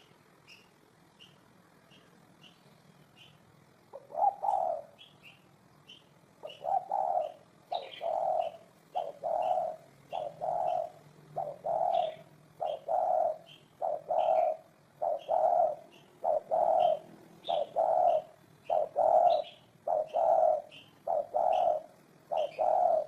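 Spotted dove cooing: a steady run of low coos, about one every second or less, starting about four seconds in. Throughout, a thin high chirp repeats evenly, a little faster than the coos.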